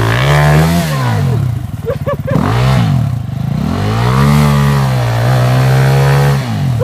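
Dirt bike engine revved hard and let fall back twice, its pitch climbing and dropping with the throttle.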